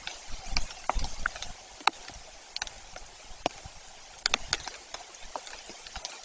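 Rain: irregular sharp taps of single drops over a faint steady hiss.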